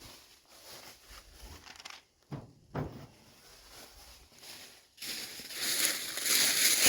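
Rustling and crinkling handling noise, louder from about five seconds in, after a quiet stretch with a couple of faint knocks.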